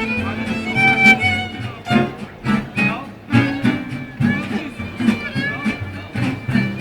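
Street band playing acoustic music: a fiddle melody over a rhythmic accompaniment with a regular beat.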